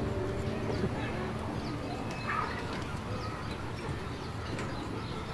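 Outdoor background with a few short, faint bird calls scattered through it, the clearest about a second in and just after two seconds in.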